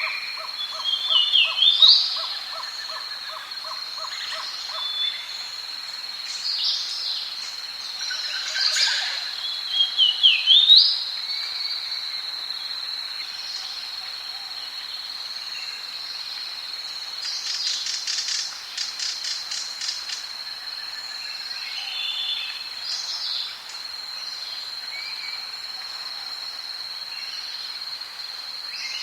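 Tropical rainforest ambience: assorted bird calls over a steady high-pitched drone, with a rapid pulsing trill about two-thirds of the way through.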